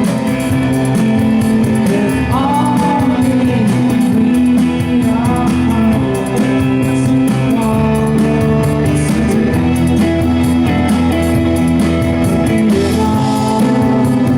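Indie rock band playing live, recorded from the crowd: sustained guitar chords over a steady drum beat, with a few gliding high notes about two and five seconds in.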